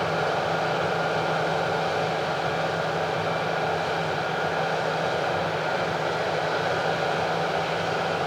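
A large farm machine's engine running steadily under load, an even hum with a constant mechanical rush over it.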